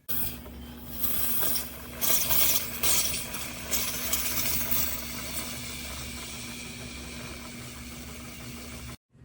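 Single-serve pod coffee maker running: a steady pump hum, with loud hissing, rattling bursts during the first few seconds, that cuts off suddenly near the end.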